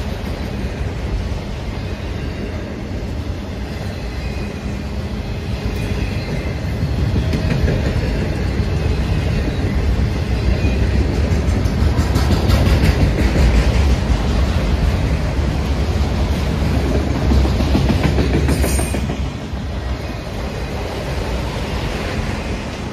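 Freight train of autorack cars rolling past at close range: a steady rumble of wheels on rail with clickety-clack over the rail joints, growing louder toward the middle and easing off late on.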